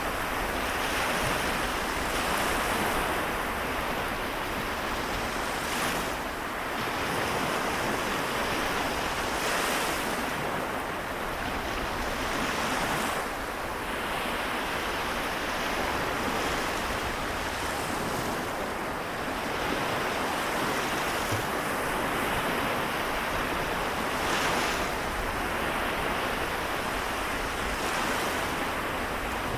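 Waves of the Seto Inland Sea washing in a steady hiss of surf, with a soft surge every few seconds.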